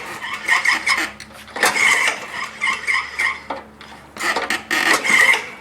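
Electric starter cranking the single-cylinder engine of a Honda HR214 lawn mower, in three bursts of fast, even pulses with short breaks between. The engine does not catch: this choked mower is hard to start.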